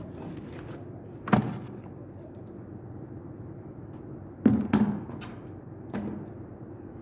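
Five short knocks and thumps: one about a second in, a quick run of three near the middle, and a softer one near the end. Beneath them is a steady low rumble.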